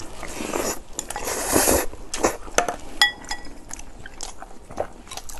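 Close-miked chewing and eating noises as two people work through mouthfuls of rice. A utensil briefly clinks against a glass rice bowl about three seconds in.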